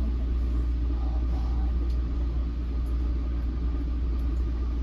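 Steady low hum and rumble inside an NJ Transit Multilevel railcar standing at a station platform, the train's onboard equipment running while it waits.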